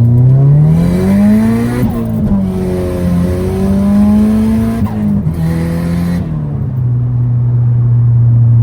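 Turbocharged Subaru WRX flat-four with its bypass valve blocked off, pulling hard through the gears. The engine note climbs, breaks with a brief turbo flutter at each of two gear changes, then falls and settles to a steady lower note.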